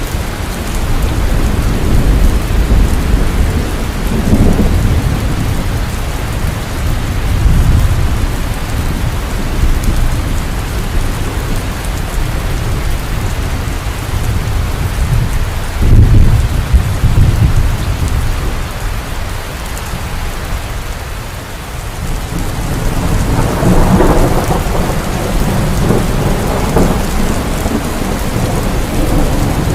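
Heavy rain falling steadily with thunder rolling through it. Several low rumbles swell and fade; the loudest starts suddenly a little past halfway, and another builds in the last third.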